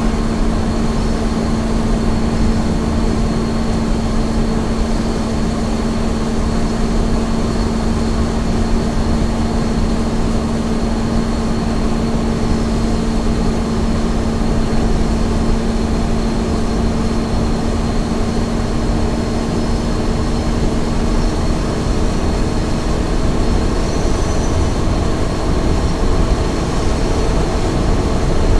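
Small truck running at steady highway speed: a constant low engine and road rumble with a steady hum that fades out about three-quarters of the way through.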